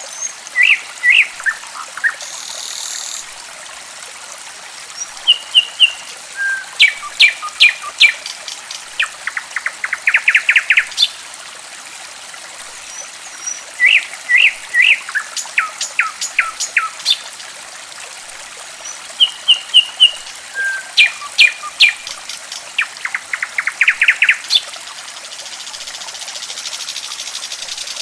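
Songbird song of sharp chirps, short whistled notes and a fast run of trilled notes, over the steady babble of trickling water. The same song sequence plays twice.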